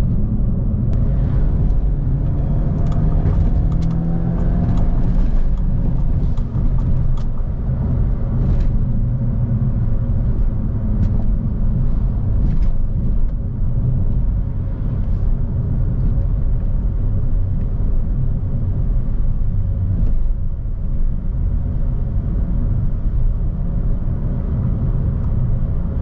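Citroën DS4's 1.6 turbo engine and road rumble, heard inside the cabin at highway speed. The engine note climbs for about four seconds as the car accelerates, then settles into a steady drone, with a few faint ticks in the first half.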